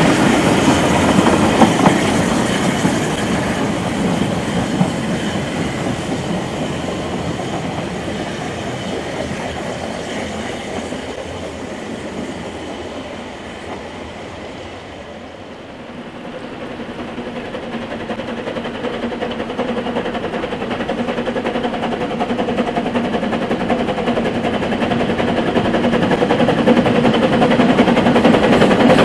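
Narrow-gauge train running along the line, fading away until about halfway, then growing steadily louder again as a train approaches.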